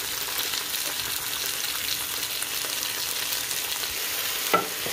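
Sliced red potatoes and chopped onion sizzling steadily in hot olive oil as a wooden spoon stirs them, with a single sharp knock near the end.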